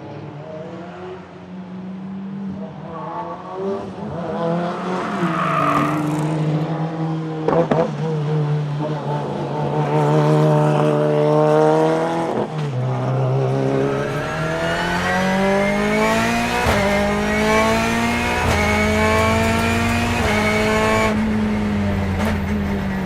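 Turbocharged four-cylinder BMW S14B20 engine of a BMW E36 time-attack race car, accelerating hard under load. The note grows louder over the first few seconds and climbs in pitch, with drops at each gear change before it climbs again.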